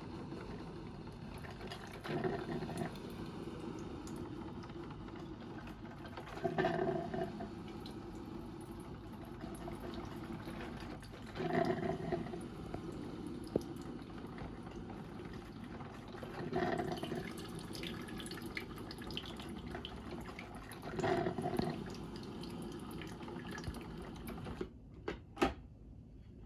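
Sharp HM-DX41-S3 drip coffee maker brewing: a steady hiss of water with a gurgling spurt about every five seconds as the heater pushes hot water up to the basket. Near the end the sound drops away, and there are a couple of short clicks.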